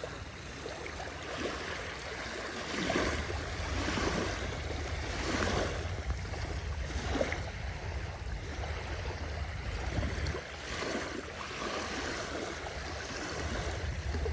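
Small sea waves washing and splashing against the shore, a new wash every second or two over a steady low rumble.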